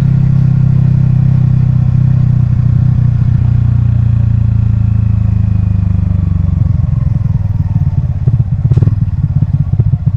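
Yamaha XSR155's single-cylinder engine and exhaust running steadily under way. About two-thirds of the way through, the revs drop and the separate exhaust pulses become audible. There is one brief sharp sound near the end.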